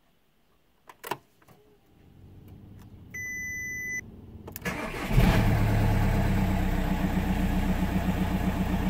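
Audi A3 being started: a couple of clicks, a dashboard warning beep lasting about a second, then the engine cranks briefly and catches about five seconds in, settling into a steady idle.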